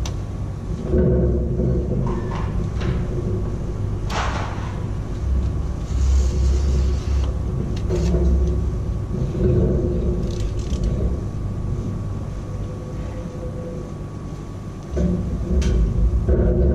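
Steady low mechanical rumble with a few held tones over it and scattered clicks and knocks; it eases off for a few seconds and then rises again near the end.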